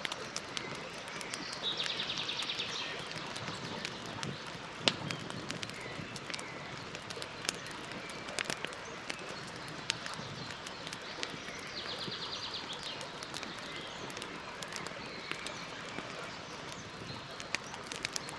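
Campfire burning with a steady hiss and scattered crackles and pops, one sharp pop about five seconds in. Twice, about two seconds in and again near twelve seconds, a short rapid chirping trill sounds over the fire.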